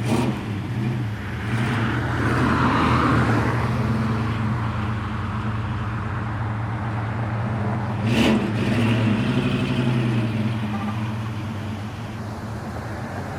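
Car engines running: a steady low engine hum throughout, swelling as a car drives past about two seconds in. Two sharp knocks, one at the very start and one about eight seconds in.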